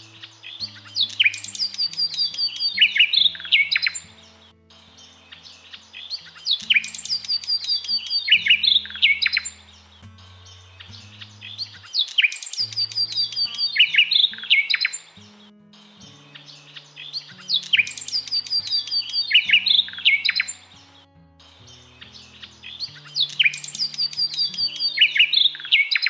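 Birdsong with music: the same burst of rapid, high chirps and trills recurs five times, about every six seconds, each burst lasting about three seconds. Beneath it runs soft background music of low held notes.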